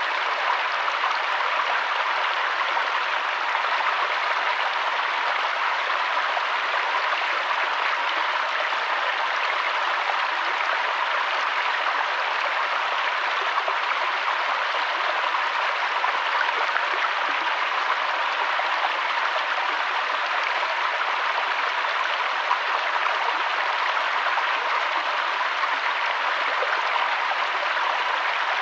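Flowing river water, a steady even rush without breaks or changes.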